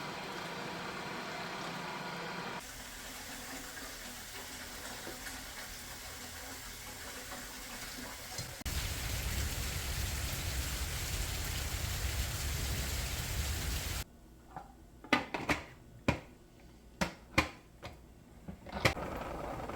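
Kitchen sounds in several short cuts: a steady rushing noise that changes at each cut, then about eight sharp clicks and knocks of utensils or containers near the end.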